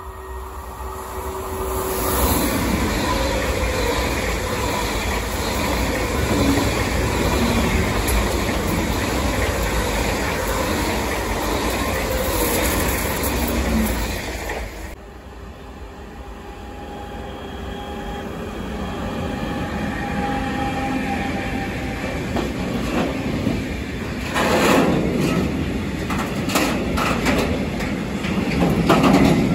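An ICE high-speed electric train passing at speed with a steady rushing roar that cuts off abruptly about halfway through. Then a long freight train of rail tank wagons rolls past, its sound building and, in the last few seconds, its wheels clattering over the rail joints.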